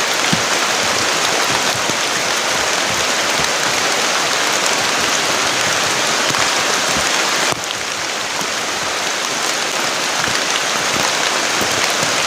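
Heavy rain pouring steadily, a dense, loud hiss; about seven and a half seconds in it drops suddenly to a slightly softer level.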